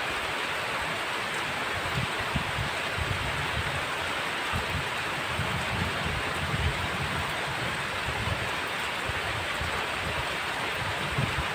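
Heavy rain falling in a steady, even hiss, with low, uneven rumbling underneath.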